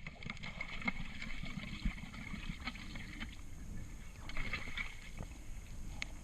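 Underwater ambience: a low rumble of water with scattered clicks and crackles throughout.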